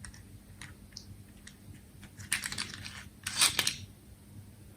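Plastic toy truck being handled: scattered light clicks, then two short bursts of rattling clatter about two and three and a half seconds in.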